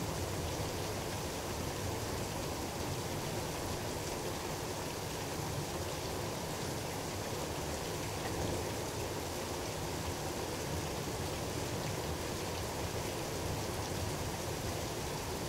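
Rain falling steadily during a thunderstorm, an even wash of noise with no thunderclap.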